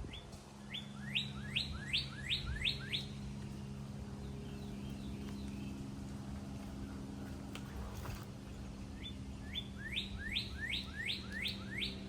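A songbird singing two phrases of quick, upward-slurred whistles, each phrase of about eight notes that climb higher and get louder. The first phrase comes at the start and the second near the end. A steady low hum runs underneath.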